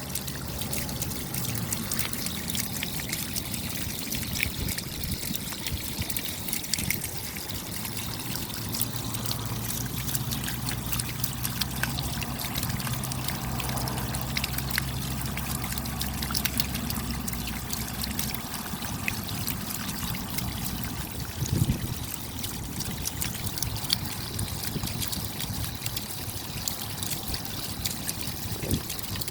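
Steady rain falling, a dense patter of individual drops with water trickling. A low hum sits underneath until about two-thirds of the way through, and two brief thumps stand out later on.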